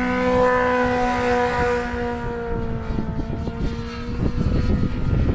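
A motor vehicle engine holding a steady drone whose pitch sags slowly partway through, with strong gusts of wind buffeting the microphone.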